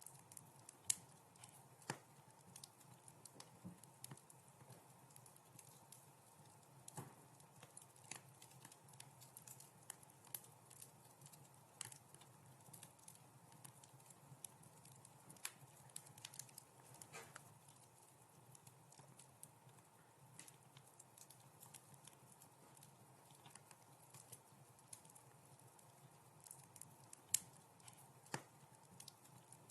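Wood fire crackling in a fireplace: irregular sharp pops and snaps over a soft low hiss, with two louder pops about a second in and near the end.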